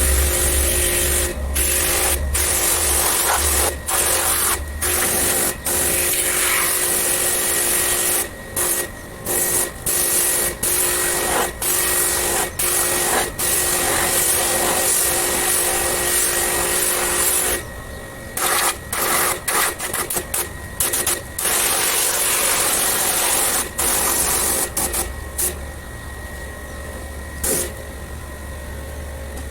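Pressure washer spraying water during air-conditioner cleaning: a loud jet hiss over a motor hum. The hiss breaks off and restarts many times in quick succession as the trigger is released and pressed.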